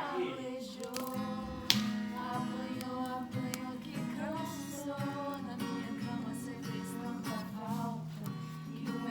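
Music with a strummed acoustic guitar, and a voice-like melody over it. A single sharp click sounds just under two seconds in.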